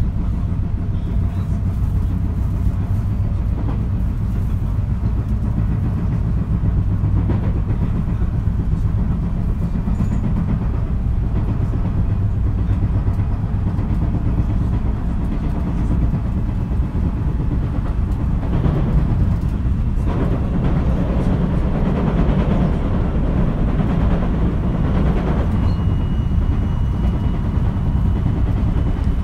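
JR West 223 series electric train running, heard from inside the KuMoHa motor car: steady wheel-on-rail and running-gear rumble, with the clatter of a wheel that has an abnormal flat spot.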